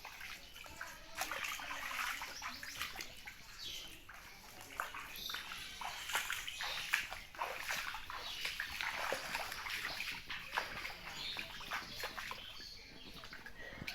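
Floodwater splashing and sloshing in quick, irregular splashes close by.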